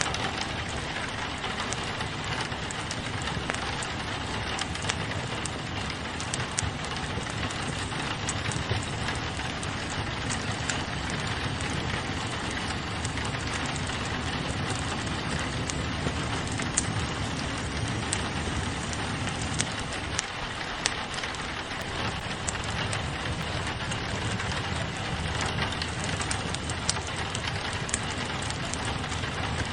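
Steady rain pattering on a window, mixed with a wood fire crackling: scattered sharp pops at irregular moments over the even hiss of the rain.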